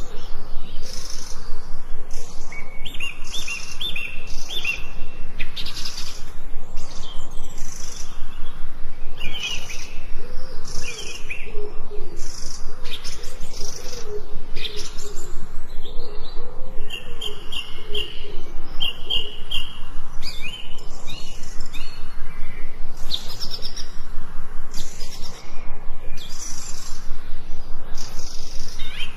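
Forest birds chirping and singing in a dense chorus of short, high calls and trills, with a lower, wavering call running through the middle.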